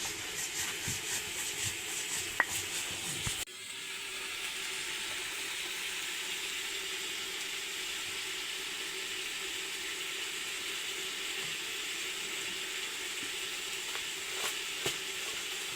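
Food sizzling as it fries in a pan: a steady hiss with a few light clicks, briefly cut off about three and a half seconds in.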